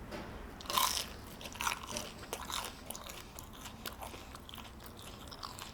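Close-miked biting into crunchy food, the loudest crunch a little under a second in, followed by chewing with small crackling clicks.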